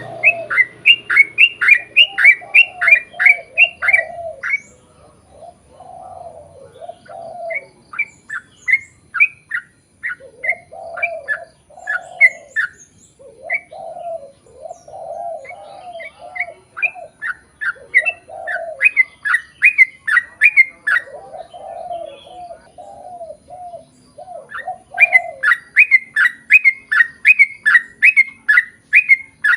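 Yellow-vented bulbul (trucukan) singing long rapid runs of short repeated falling notes, about three a second, each run lasting several seconds with short pauses between, over lower warbling notes.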